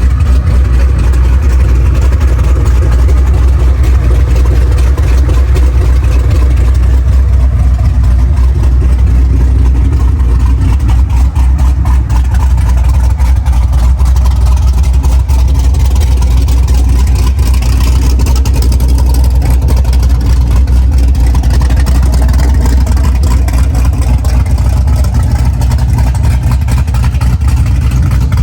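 Vehicle engine running steadily with a loud, continuous low rumble.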